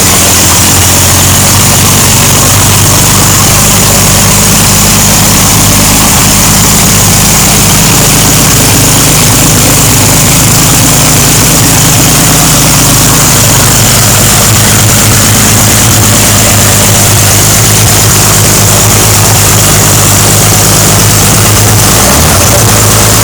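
GM 292 4.8-litre inline-six engine idling steadily just after a cold start, loud and close.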